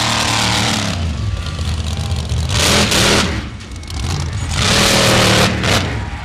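Monster truck engine running, with two loud revving surges about two and a half and about four and a half seconds in.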